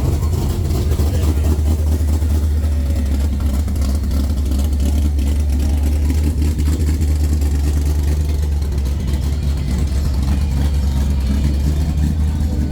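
A car engine running steadily at low revs, a continuous deep hum with no clear change in pitch.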